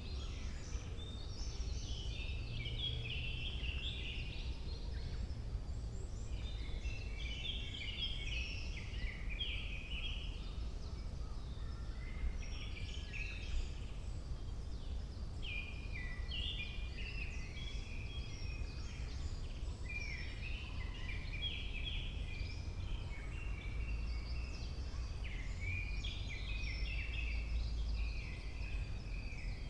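Songbirds singing in a spring forest, short chirping and trilling phrases overlapping every second or two, over a steady low rumble.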